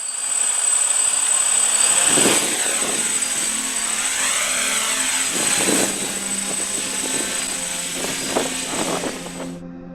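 DJI F550 hexacopter's six electric motors and propellers running with a steady high whine, the pitch sweeping up and down as it manoeuvres, and gusts of wind buffeting the microphone. The rotor sound cuts off suddenly near the end, leaving soft music that had come in quietly beneath it.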